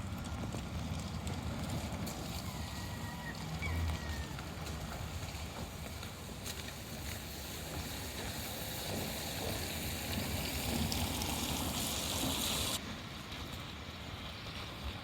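Outdoor waterside ambience: a steady low rumble with water noise and a high hiss, the hiss cutting off abruptly near the end.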